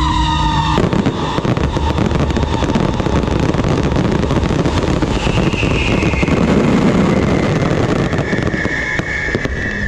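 Fireworks display: ground fountains and overhead crackling shells set off together, giving a dense, continuous crackle of countless rapid pops from about a second in.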